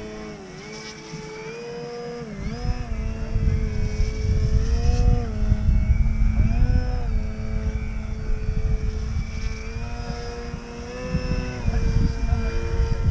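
Cap 232 radio-controlled model plane's motor and propeller droning in flight, the pitch dipping and recovering several times as the throttle changes. Gusty wind rumbles on the microphone.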